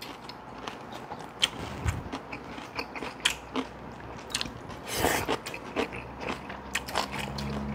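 People chewing and crunching as they eat Korean side dishes, with scattered short clicks and crackles.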